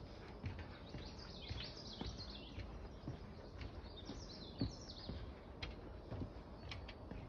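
A songbird singing two bursts of quick, high, falling chirps, over steady outdoor background noise with scattered soft thumps, the loudest about four and a half seconds in.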